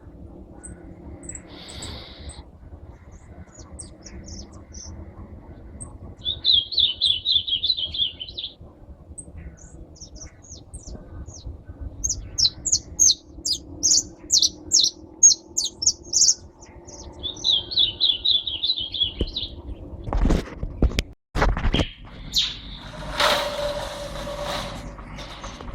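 Pet songbirds singing: scattered high chirps, two fast trills and a run of loud, high, repeated notes. Near the end come a few loud knocks, then a harsh noise lasting about two seconds.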